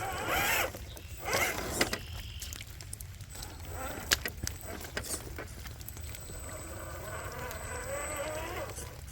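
Radio-controlled scale crawler truck's electric motor and geartrain whining in short throttle bursts, the pitch wavering with the throttle, with a few sharp clicks of the chassis and tires on rock in between. A longer stretch of whine comes near the end.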